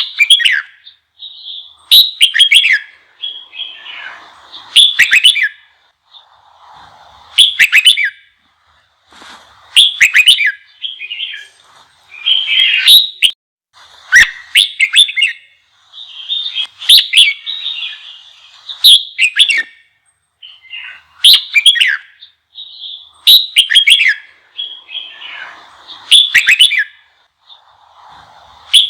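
Red-whiskered bulbul singing loud, quick whistled phrases about every two seconds, with quieter chattering notes between. It is a heated, excited song of the kind played to provoke young males into singing.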